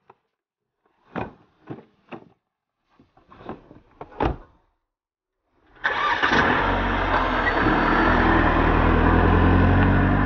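A few short knocks and thumps as a car door is handled and shut, then about six seconds in an SUV's engine starts abruptly and runs steadily.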